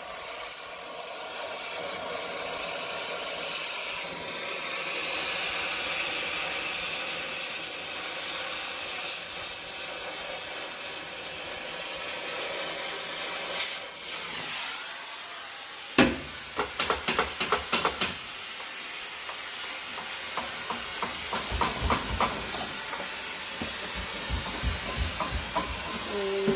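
Shop vacuum running with a steady hiss of air through its nozzle, cleaning out around the exhaust manifold studs. A quick run of sharp clicks and knocks comes about two-thirds of the way in, and a few rhythmic low knocks follow.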